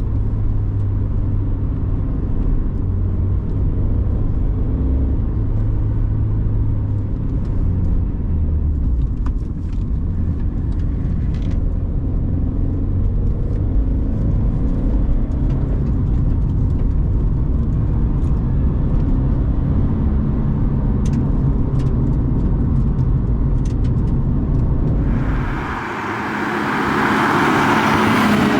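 Turbocharged 2013 Scion FR-S's flat-four engine running steadily under way, a loud, even drone. Near the end the engine note drops away and a loud rushing hiss takes over.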